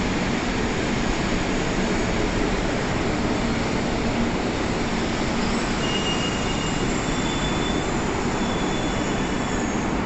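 E2 series Shinkansen train running, a steady rushing of wheel and running noise, with a few faint short high-pitched squeals from about six seconds in.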